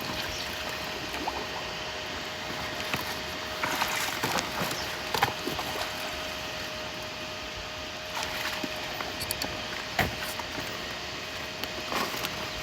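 Faint water sloshing and trickling in a flooded field, with scattered small knocks and rustles and a faint steady hum underneath.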